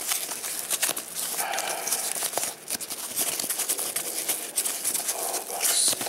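Crinkling and rustling of a thin foam packing sleeve as an FPV receiver is slid and pulled out of it by hand, an irregular run of crackles and small scrapes.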